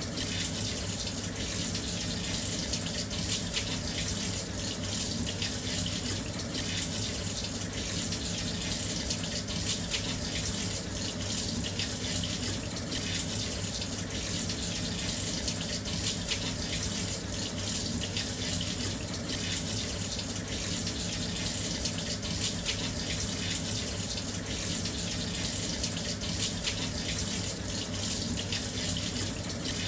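Washing machine filling with water: a steady, continuous rush of water pouring into the drum, with a low hum beneath it.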